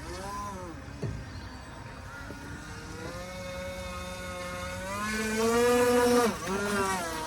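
Radio-controlled model boat's motor whining, its pitch rising and falling with the throttle and climbing to its loudest about five seconds in before dropping back. A brief thump about a second in.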